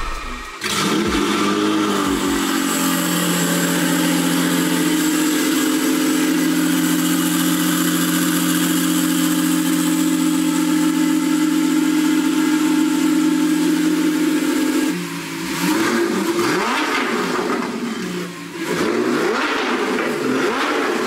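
Lamborghini Sián's V12 engine starting with a brief flare of revs, then idling steadily. From about two-thirds of the way through, it is blipped several times, the revs rising and falling.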